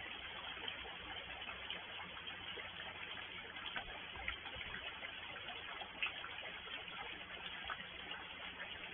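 Steady rain: an even hiss of falling rain with scattered drops tapping, one louder tap about six seconds in.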